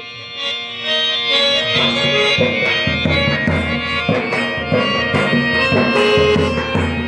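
Instrumental break in a Rajasthani folk Holi song: a reedy keyboard melody, like a harmonium, over a steady hand-drum rhythm.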